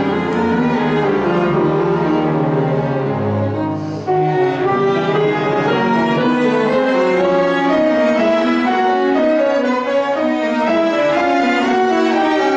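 Piano quartet playing classical chamber music: sustained violin and cello lines over piano. The cello's low notes drop out about seven seconds in.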